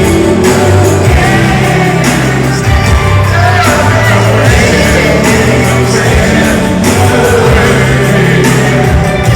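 Live R&B concert heard from the audience, loud: male vocals singing over a band with bass and drums, in a large hall, with the crowd shouting and singing along.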